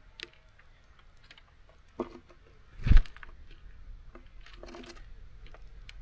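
Small birds at a seed feeder landing, hopping and pecking: scattered sharp taps and clicks, with one loud, deep knock about three seconds in.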